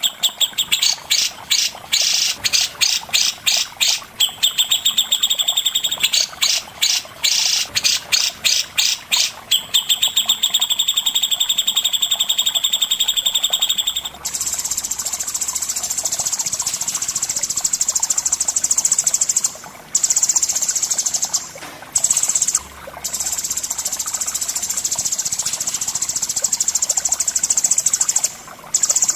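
A songbird singing in fast trains of sharp, evenly repeated high notes, switching about halfway to a continuous high, buzzing trill broken by a few short gaps.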